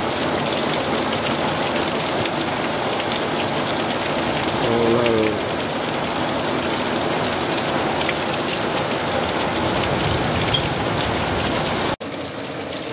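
Heavy rain pouring steadily onto pavement, grass and parked cars, a dense hiss. A brief voice calls out about five seconds in, and the rain drops slightly in level after a sudden break near the end.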